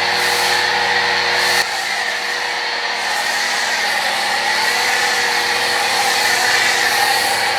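Portable pressure washer running, its motor whining steadily over the hiss of the water spray. A lower hum cuts out suddenly about one and a half seconds in.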